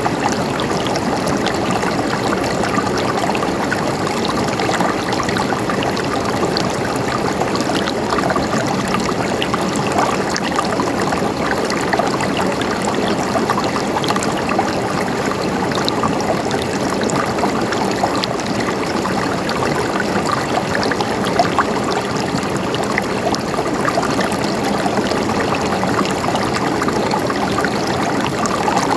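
Water flowing steadily in a stream, gurgling, with many small splashes and no letup.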